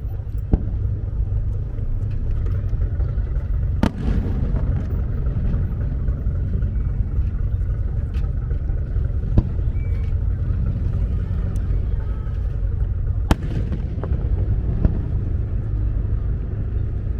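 Fireworks bursting at a distance: a few sharp bangs several seconds apart over a steady low rumble.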